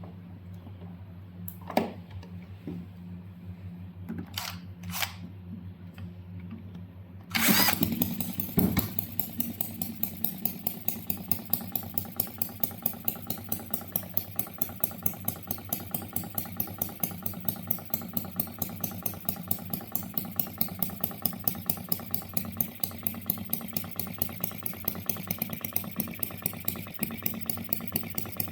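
Model single-cylinder OKMO 1105B engine starting: after a low steady hum and a few clicks, it catches suddenly about seven seconds in, then runs at an even, rapid beat, about three to four firing pulses a second.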